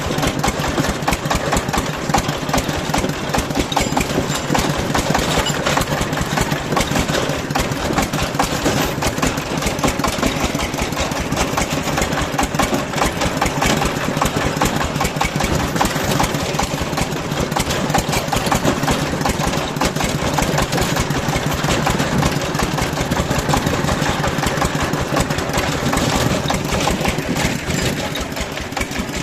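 A small vehicle engine running steadily, its rapid firing pulses going on without a break.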